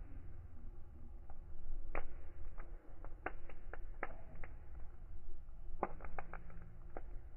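Wood fire crackling: irregular sharp pops and snaps over a low steady rumble, with a quick cluster of pops about six seconds in.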